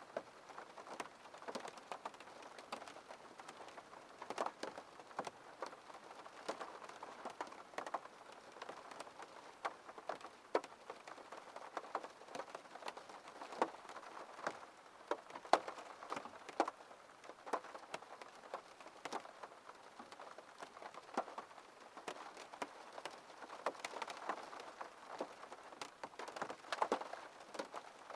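Rain falling on a window pane: a steady hiss with many separate drops ticking sharply against the glass.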